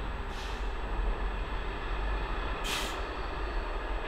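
SNCB double-deck passenger coaches rolling past: a steady rumble of wheels on the rails, with short hissing bursts about every two seconds, the loudest about two and a half seconds in.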